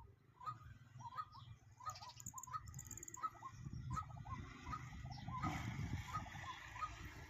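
A bird calling over and over in short notes, about two to three a second, with a low rumble underneath.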